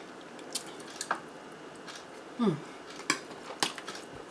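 Cutlery clinking and scraping against a plate of zucchini boats, with several sharp clicks and one short falling squeak about two and a half seconds in.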